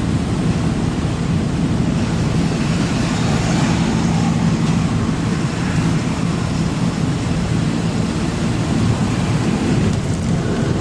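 Truck engine running steadily with road noise while driving, a constant low drone.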